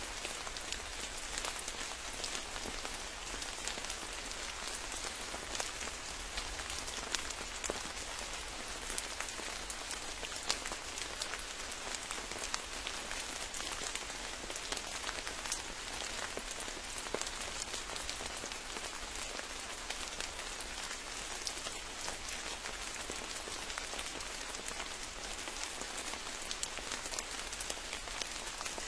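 Steady rain falling, a continuous hiss filled with many close individual drop hits.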